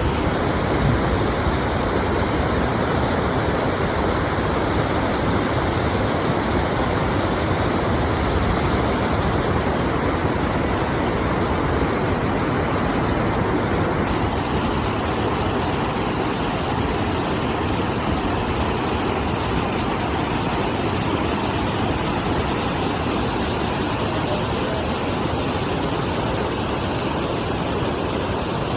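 Rain-swollen water rushing at a dam, a steady, unbroken rush.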